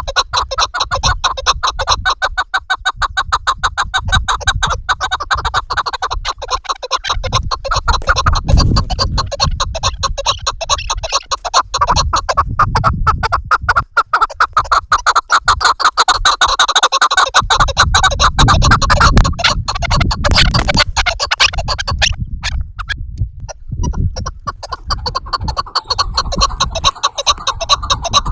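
Chukar partridges calling: a rapid, rhythmic run of clucking notes repeated many times a second, breaking off briefly a little past three-quarters of the way through.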